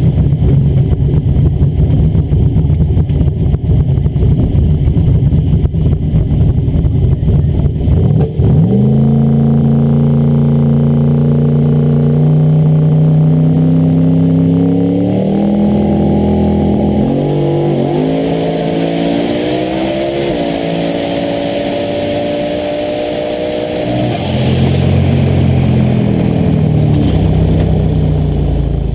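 Turbocharged 435ci Windsor V8 of a Ford Fairmont XW drag car. It starts with a loud, rough rumble for about eight seconds. Then a clear engine note climbs in several steps and falls back lower near the end.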